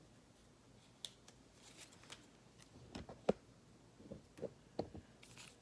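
Faint handling of a roll of paper stickers as they are peeled off and pressed down: scattered light clicks and rustles, the sharpest about three seconds in and a few more just after.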